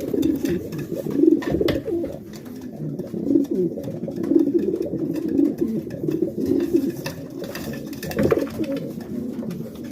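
Racing pigeons cooing in a small loft, several birds' low calls overlapping. A few sharp taps or flutters cut across them near the start.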